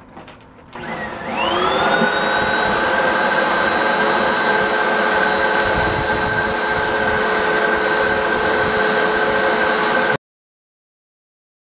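Hoover WindTunnel upright vacuum cleaner's motor switched on about a second in, spinning up with a quickly rising whine and then running at a steady, loud pitch. The sound cuts off abruptly to complete silence near the end.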